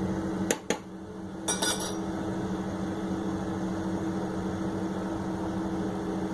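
Kitchen utensils clinking against a pot: two sharp clicks about half a second in, then a short ringing clink, over a steady low hum.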